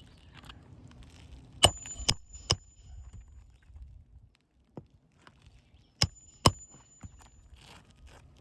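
Hammer driving roofing nails through a new asphalt shingle: three sharp strikes about half a second apart, then a pause, then two more, the first strike of each run leaving a short metallic ring.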